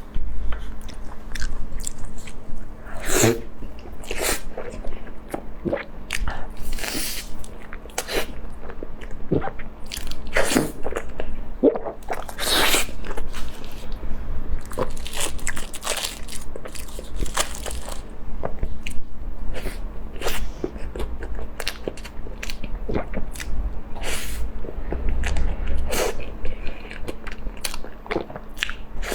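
A person eating close to the microphone: irregular crunchy bites with chewing in between, a few bites louder than the rest.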